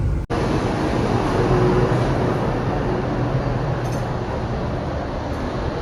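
Steady rumble and rolling noise of a Dubai tram in motion.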